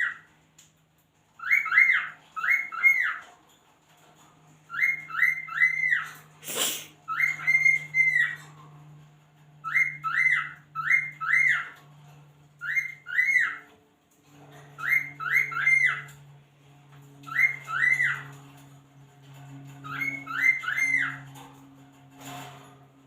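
Cockatiel whistling: short rising-and-falling notes in quick clusters of two or three, repeated every second or two. A faint steady hum runs underneath, with a sharp click twice.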